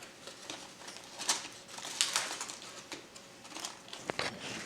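Aluminium foil around a smoked pork shoulder crinkling in short, scattered rustles as it is unwrapped, with a brief high squeak a little after four seconds.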